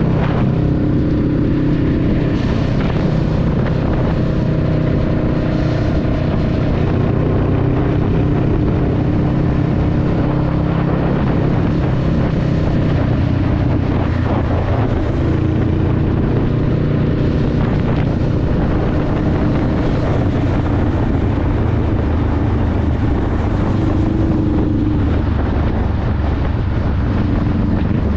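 Honda Rebel 500's 471 cc parallel-twin engine running steadily while the bike is ridden, with wind noise on the microphone.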